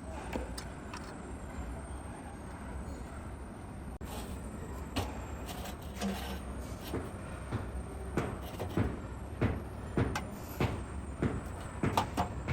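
Hand work in a foundry workshop: irregular sharp knocks and clatter over a steady low machine hum, with the knocks starting about five seconds in and coming more often near the end.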